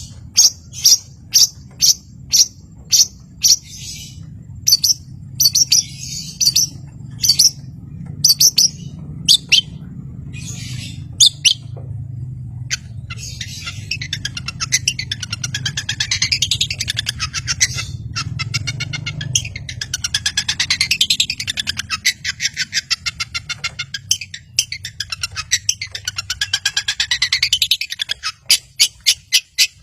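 Long-tailed shrike (cendet) singing: a run of loud, sharp, harsh notes about one to two a second, then a fast rapid chatter that sweeps up and down in pitch, with sharp notes again near the end. A steady low hum runs underneath.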